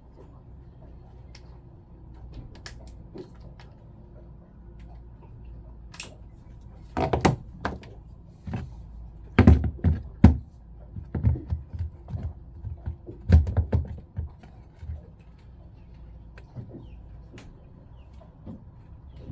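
Knocks and clatter of hard parts and tools being handled during pump reassembly, in short irregular clusters from about seven to fourteen seconds in, over a low steady hum.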